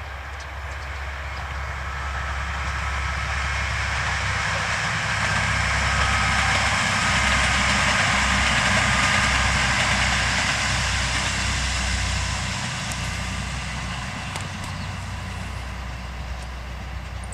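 A train passing close by: a steady low engine rumble under rail and wheel noise that builds to a peak about halfway through, then slowly fades.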